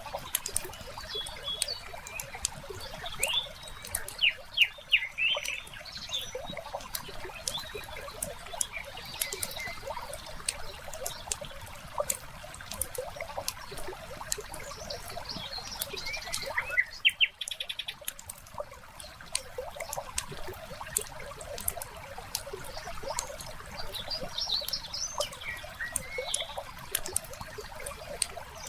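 Wood fire crackling with frequent small pops, with birds chirping in short phrases now and then.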